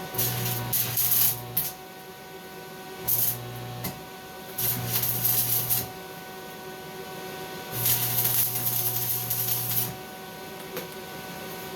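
Stick welding arc crackling and hissing in four bursts of one to two seconds each, with a steady machine hum running underneath.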